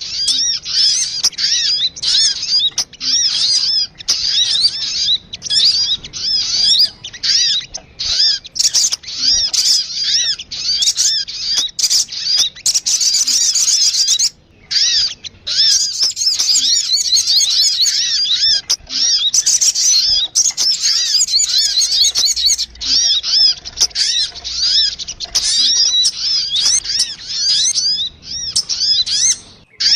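Sogun bird calling in a rapid, noisy chatter of high arched chirps, two or three a second, played as a bird-trapping lure call. It breaks off briefly about halfway through and again near the end.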